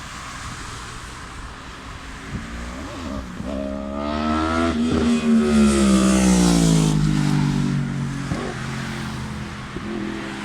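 2015 Yamaha R1's crossplane inline-four engine as the bike passes by at speed. The engine note climbs in pitch as it approaches, is loudest between about five and seven seconds in, and drops in pitch as it moves away.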